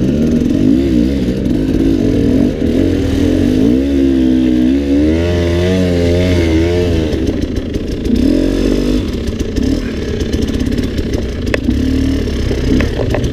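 Dirt bike engine revving up and down, the pitch rising and falling again and again as the throttle is worked hard on and off.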